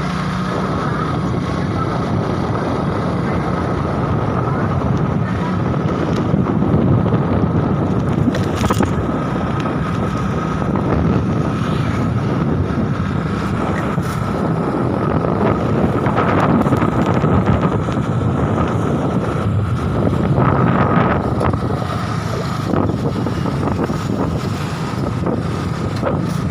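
Strong gusting wind rushing over the microphone in a steady, dense roar of noise, with a faint steady high tone underneath.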